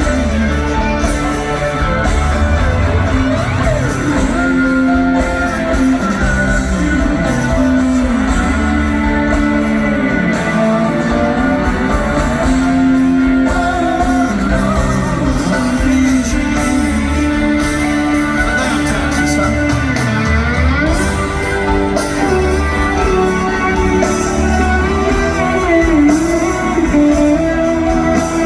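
Live rock band playing a slow song, led by electric guitar whose notes glide up and down over steady bass and drums.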